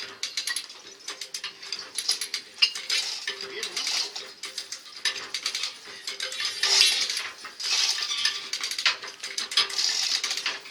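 Metallic clinking and clattering, many sharp clicks mixed with short bursts of scraping, over a faint steady hum.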